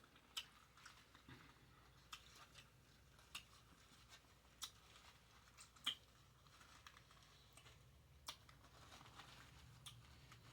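Faint, close-miked chewing of a bacon cheeseburger: irregular sharp wet mouth clicks and small crunches, about six distinct ones, the loudest a little past the middle, with soft crackling between.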